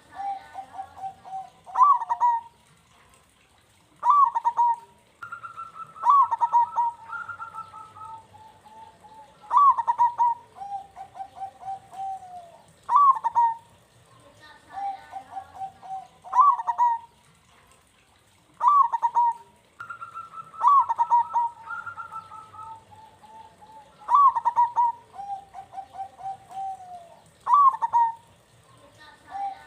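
Zebra dove (perkutut) singing its cooing song: each phrase is a sharp first note followed by a quick rolling run of lower coos, repeated about every three to four seconds.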